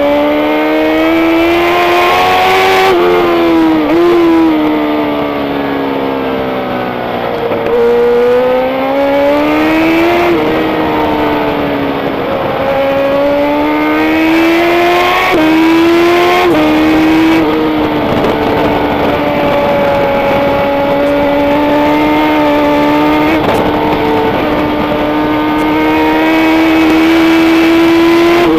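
Racing motorcycle engine at high revs, its pitch climbing and then dropping sharply several times as it shifts gear. The revs ease down and build again once, then hold high and fairly steady for the last half.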